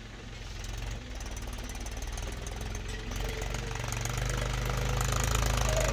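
Heavy diesel engine running with a rapid knocking beat, growing steadily louder.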